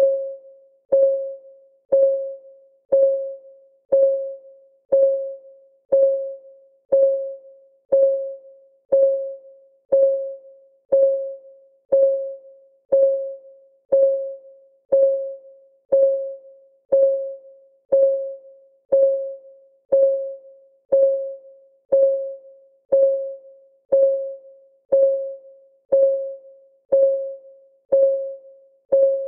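Countdown timer's clock-ticking sound effect: a short, pitched tick once every second, each one fading quickly, at a steady even pace.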